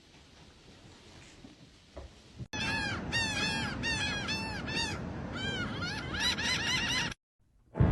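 Harsh, repeated bird calls, several overlapping at about three a second, starting suddenly a couple of seconds in and cutting off abruptly near the end.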